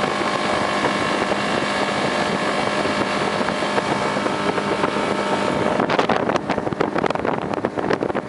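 Boat motor running steadily with wind on the microphone; about six seconds in, the engine tone stops abruptly and gives way to rough wind buffeting and crackling noise.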